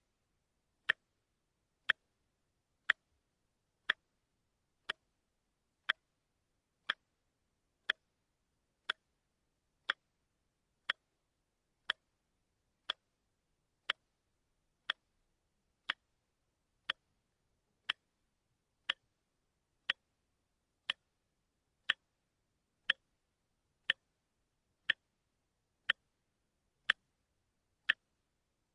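Watch ticking steadily, one sharp tick each second with silence between.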